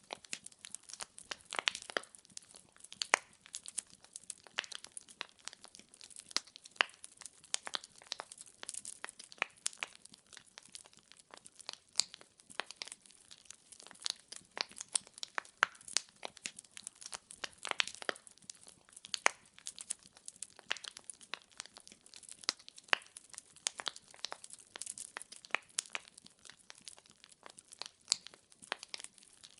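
Wood fire burning in a fireplace, its logs crackling with dense, irregular sharp pops and snaps, some louder than others, over a faint hiss.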